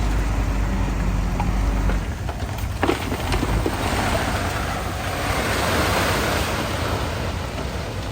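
Bulldozer's diesel engine running with a steady low drone under a rushing noise that swells about halfway through, with a couple of sharp knocks about three seconds in.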